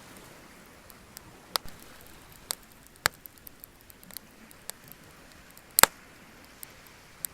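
Wood bonfire crackling: sharp, irregular pops a second or so apart, the loudest a quick double pop near the end, over a faint steady hiss.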